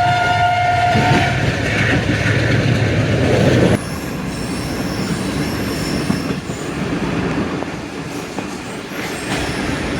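Locomotive horn sounding with several steady tones, ending about a second in, over the running noise of a moving passenger train. About four seconds in, the noise drops suddenly to a quieter rail rumble with faint high wheel squeal as the train slows for a stop.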